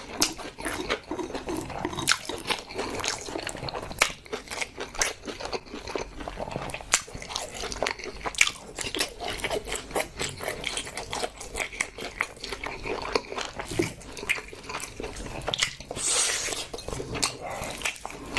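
Close-miked chewing and biting of food, a steady run of sharp wet clicks and smacks from the mouth, with a brief louder noisy stretch about 16 seconds in.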